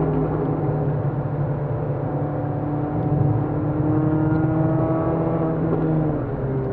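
Peugeot 206 RC's 2.0-litre four-cylinder engine heard from inside the cabin, pulling steadily with a slowly rising note, then dropping away about six seconds in as the driver lifts off and brakes.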